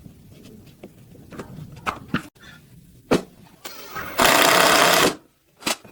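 Light taps and clicks of handling small parts, then a small power tool running in one short burst of about a second.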